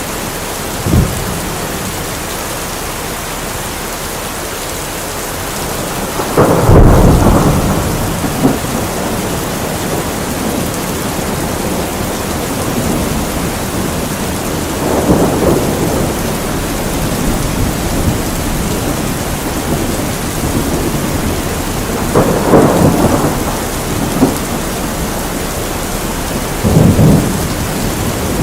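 Steady rain falling during a thunderstorm, with several rolls of thunder rumbling over it; the loudest rolls in about seven seconds and lasts a couple of seconds, with others near the middle and end.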